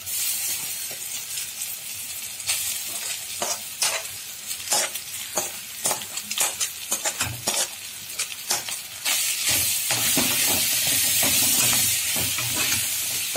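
Boiled minced mutton frying in hot oil with sautéed shallots in a kadai, stirred with a metal spatula: steady sizzling with many clicks and scrapes of spoon and spatula on the pan. The sizzle grows louder about nine seconds in, as the mince is stirred through.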